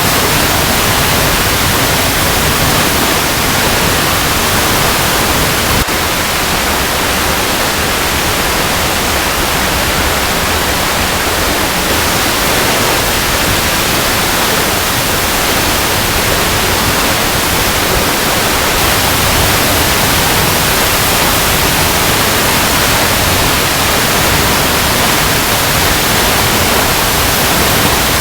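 Waterfall cascading over rocks: a loud, steady rush of water with no let-up.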